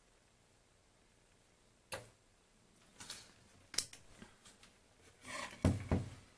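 Handling noise from the disassembled BeoCom 2 telephone and tools on a workbench: a few sharp clicks, then a rustling rub, then two dull knocks near the end.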